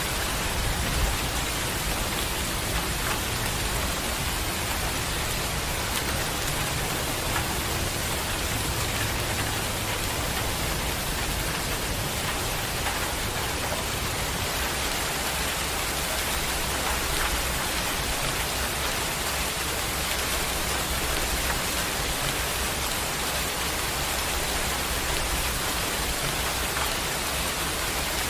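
Heavy rain falling steadily: a dense, even hiss with a few faint drop ticks.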